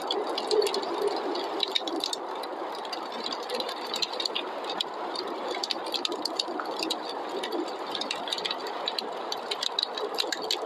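Wood fire crackling in a fireplace, with many small sharp pops and snaps over a steady rush of snowstorm wind.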